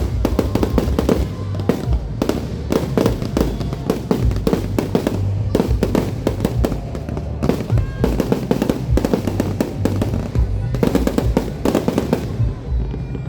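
Fireworks crackling and popping in a dense, rapid barrage of sharp cracks, many per second, over a low rumble.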